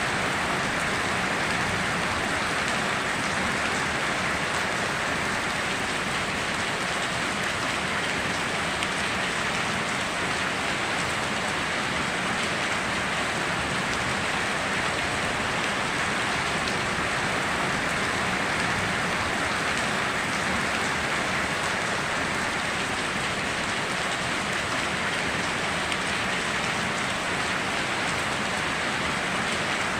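Steady heavy rain falling on surfaces, a continuous even hiss with no thunder or other breaks.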